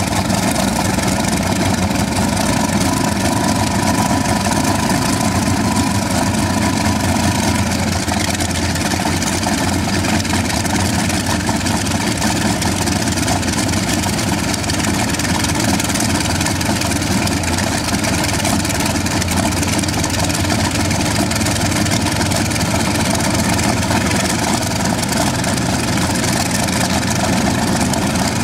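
Kamov Ka-26's Vedeneyev M-14V-26 nine-cylinder radial piston engines running steadily at idle after a hard cold start, now running smoothly. A higher tone fades out about eight seconds in.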